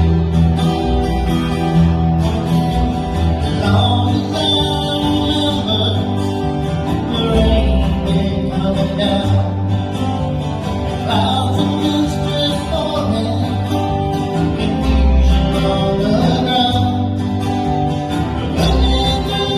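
Live band playing a song: guitar and low bass notes under a singing voice.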